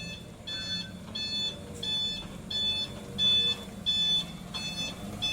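Dump truck's reversing beeper sounding steady, evenly spaced high beeps, about one every three quarters of a second, over the low running of the truck's engine: the truck is backing up.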